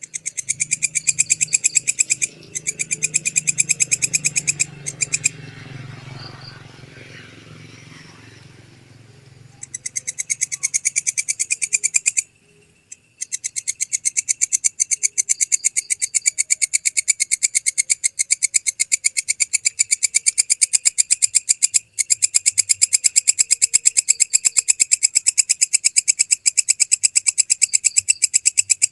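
Walang kecek (belalang kecek) katydid singing: long runs of rapid, evenly spaced high chirping pulses, with short breaks a few times. A low hum sits underneath for the first several seconds.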